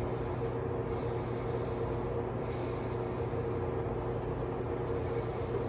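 Steady low hum with a few held tones and an even background hiss, unchanging throughout.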